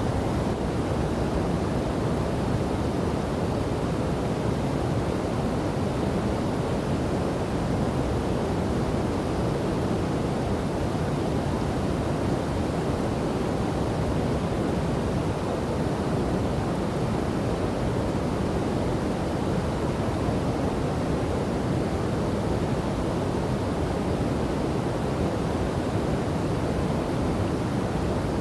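Rushing water of a river waterfall: a steady, unbroken rush, deep in pitch, with no changes or separate splashes.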